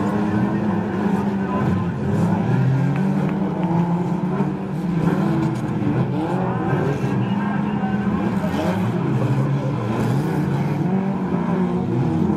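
Engines of a pack of super stock cars racing together, several engines revving at once so that their pitches keep rising and falling over one another.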